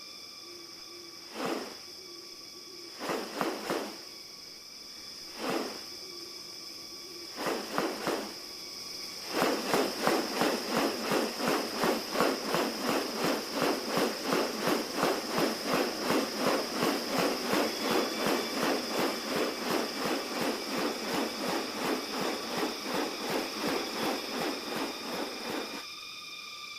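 Rainforest sound with a steady high insect drone. Over it come a few short rasping calls, then from about nine seconds a long, even run of rasping pulses, about two and a half a second, that stops shortly before the end.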